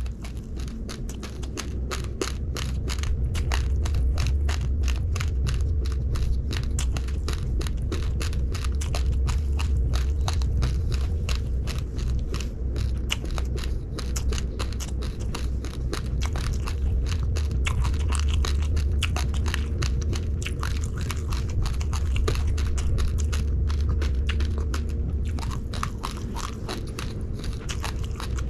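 Close-miked chewing of uncooked rice: a dense, fast run of small sharp crunches as the dry grains crack between the teeth, over a low steady rumble.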